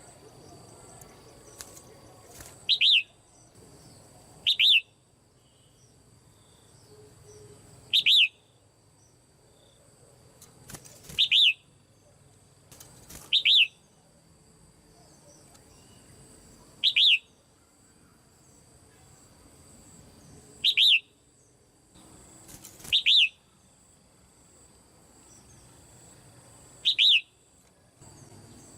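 Caged female red-whiskered bulbul giving short, sharp falling calls, nine in all, one every two to four seconds.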